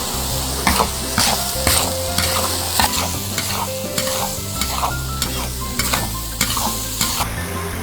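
Food stir-frying in a wok: a steady sizzle with a spatula scraping and knocking against the pan about twice a second.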